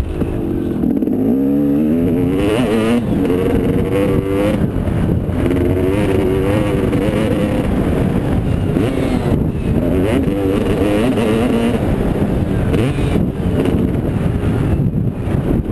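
Motocross motorcycle engines revving, their pitch repeatedly rising and falling as the bikes accelerate and shut off.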